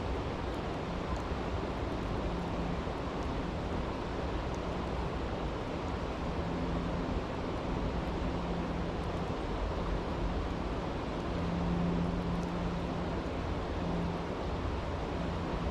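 Steady rushing of a brook, with a few faint crackles of a campfire.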